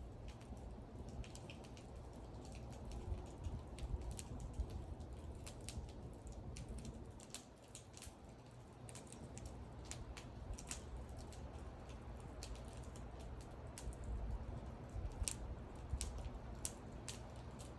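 Wood fire burning, with irregular sharp crackles and pops, several a second, over a low rumble of the flames.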